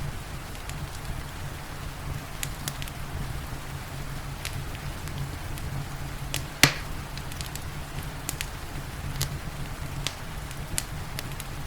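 Wood fire crackling, with scattered sharp pops and one loud crack a little past halfway, over a steady low rumble and the even hiss of rain.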